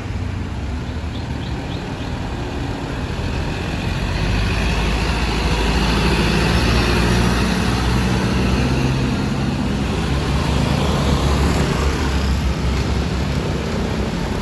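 Fire engine driving past with its siren off: engine hum and tyre and road noise that swell to a peak in the middle and ease off near the end.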